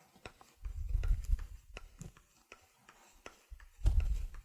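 Small steel ball bearings ticking out of a fire hose nozzle's coupling port as the coupling is twisted: a scattered run of light metallic clicks, with low handling thumps about a second in and near the end.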